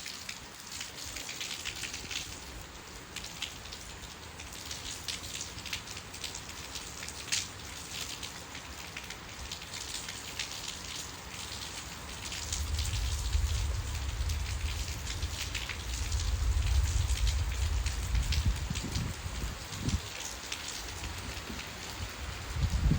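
Steady rain falling, with many separate drops and drips heard through it. A low rumble rises under the rain about halfway through and fades after several seconds.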